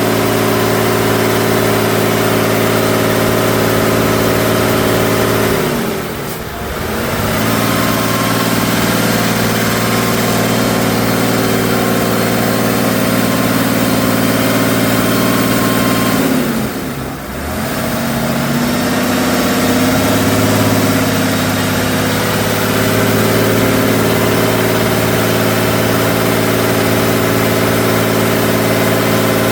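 Off-road truck engine running steadily under load. Twice, about six seconds in and again about seventeen seconds in, the engine briefly drops in pitch and level, then climbs back up, as when the throttle is lifted for a moment.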